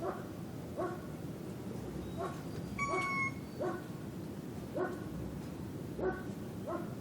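A dog barking over and over, roughly once a second, over a steady low background of village night ambience. About three seconds in, a short, steady high note sounds for about half a second.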